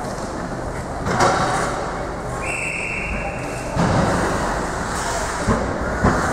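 Hockey game sounds: sharp knocks of the puck, sticks or players against the boards over a steady rink hubbub. A single steady whistle blast, typical of a referee stopping play, comes a little over two seconds in and lasts about a second and a half.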